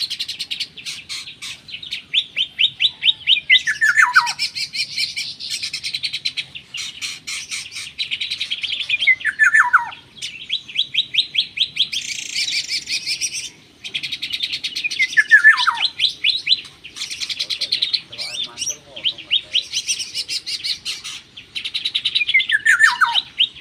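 Songbird calling continuously in fast, rhythmic trains of high chirps. A loud whistle slides steeply downward about four, nine, fifteen and twenty-three seconds in.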